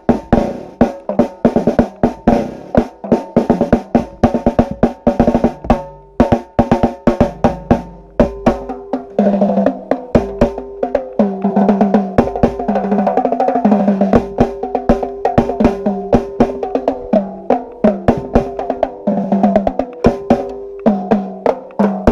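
Drum music: fast snare drum strokes and rolls over bass drum hits, joined from about nine seconds in by sustained pitched notes beneath the drumming.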